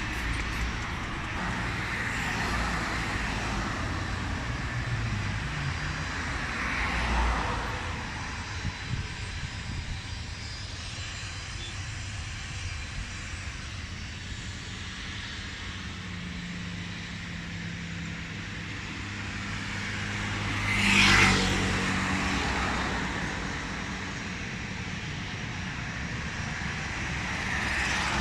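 Aircraft engines running steadily at an airport, with a passing vehicle swelling and fading briefly about seven seconds in and a louder, quicker one about twenty-one seconds in.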